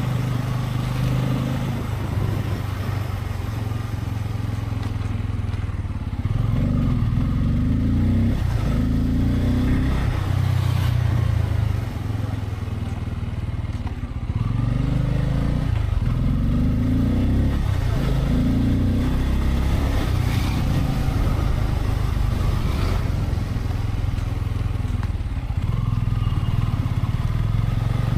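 A Bajaj Pulsar N250's 249 cc single-cylinder engine is heard from on the bike while it is ridden. The engine note rises and falls repeatedly as the throttle is opened and eased.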